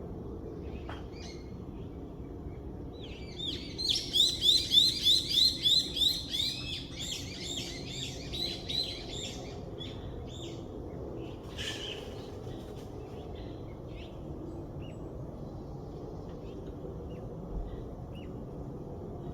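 A songbird singing a rapid series of repeated high, sweeping notes, about three a second, for roughly six seconds, fading toward the end, followed a couple of seconds later by one short call. A steady low outdoor background hiss runs underneath.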